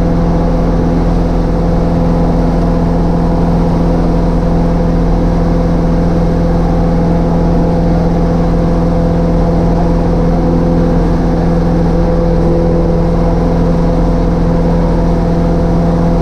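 Cessna 152's four-cylinder Lycoming O-235 engine and propeller droning at a steady, unchanging power setting.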